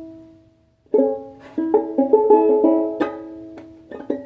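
Plucked string instrument: a strummed chord rings and fades, then, about a second in, a quick run of picked notes and chords, slowing to a few last notes near the end.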